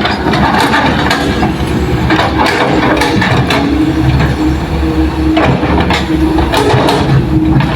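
Heavy diesel engines of Hitachi excavators and a dump truck running steadily, with repeated sharp clanks and knocks from the machines working.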